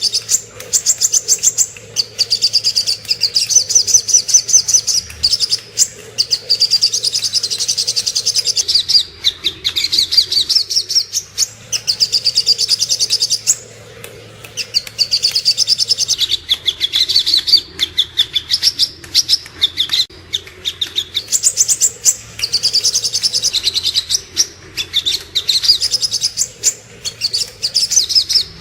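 Sogok ontong birdsong played as a masteran training recording: long, rapid, high-pitched chirping trills in phrases of several seconds, broken by short pauses.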